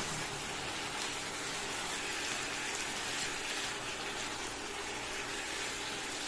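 Chicken pieces sizzling steadily in hot oil in a frying pan, an even hiss with no breaks.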